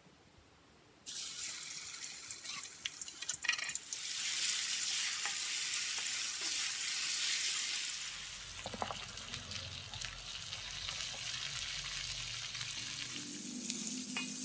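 Ground spice paste sizzling in oil in a wok on medium heat, starting about a second in and louder from about four seconds in, as it is sautéed until fragrant. A metal spatula scrapes and clicks against the wok as the paste is stirred.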